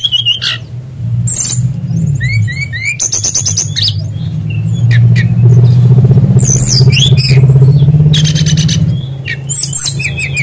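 An SRDC (mangrove whistler) singing a varied song of clear whistled notes and quick rapid runs, the kind of song worked with kingfisher imitations. A steady low hum runs underneath and is loudest in the middle.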